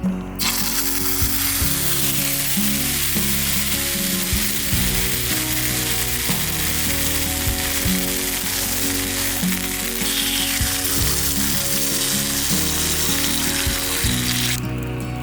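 Food sizzling steadily in a hot frying pan; the sizzle starts and cuts off abruptly.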